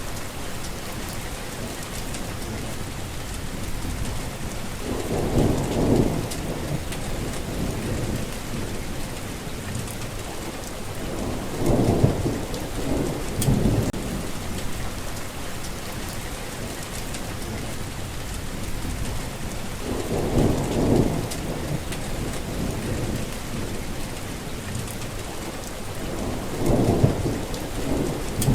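Steady rain falling, with about five low rolls of thunder that swell and fade over a second or two each.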